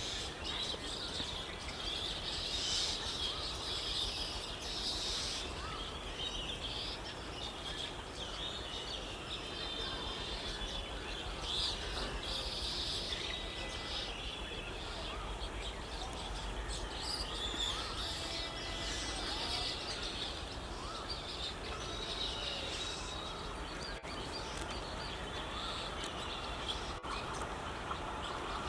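Birds chirping and calling repeatedly, short high chirps and trills, over a steady low background noise.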